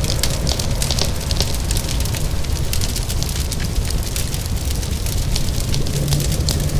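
Wood fire crackling, with many sharp pops, over a steady wash of rain.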